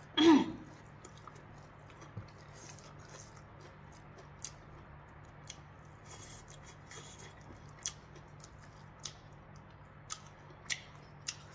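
Chewing and mouth sounds of a person eating rice and vegetable curry by hand, with scattered soft smacks and clicks. A short voice sound with falling pitch right at the start is the loudest thing.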